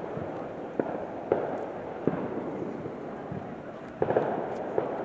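Fireworks going off: a series of sharp bangs at irregular intervals, about six in all, with several close together near the end.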